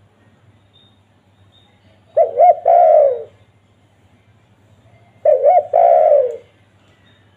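Spotted dove (tekukur) cooing twice, about three seconds apart: each call is a quick double note followed by a longer falling note. A faint low hum runs underneath.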